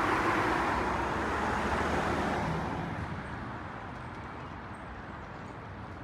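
A passing vehicle: a rushing noise with a low rumble that fades away a little after halfway through as the vehicle recedes.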